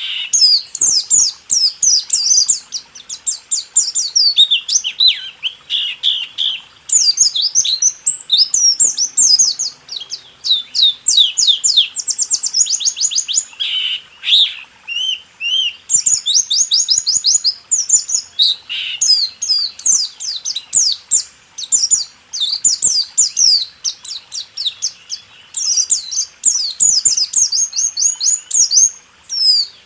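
White-eye (pleci) singing a fast rolling song: rapid runs of high, down-slurred notes broken by short pauses, with a few lower phrases mixed in. This is the 'rool tembak' style used as a tutor song to get cage birds singing.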